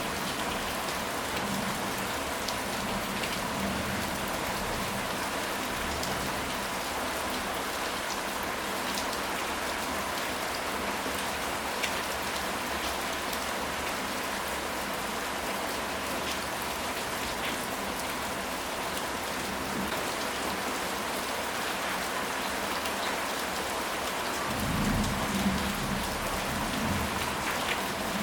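Steady rain falling on a surface, an even hiss with scattered drop ticks, with low rumbles of distant thunder in the first few seconds and again near the end.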